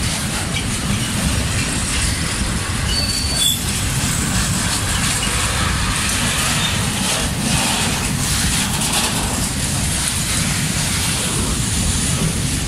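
Freight train of tank wagons rolling past at close range: a steady rumble and clatter of steel wheels on rail, with a brief high wheel squeal about three seconds in.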